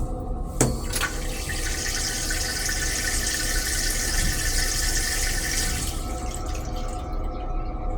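Water rushing in a Metro-North M3 railcar restroom. It starts just after a couple of clicks, runs steadily for about five seconds, then cuts off abruptly, over the steady low rumble of the moving train.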